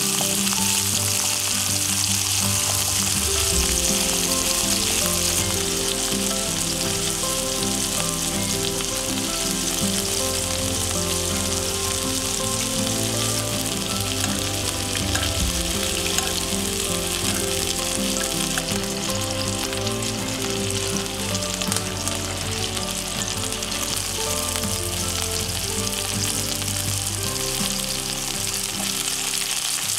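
Chicken thigh pieces sizzling steadily in hot oil in a frying pan as they are turned and basted with oil.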